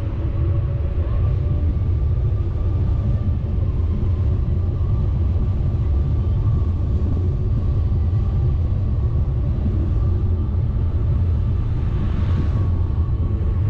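Steady low rumble of a vehicle driving, with a brief rush of hiss near the end.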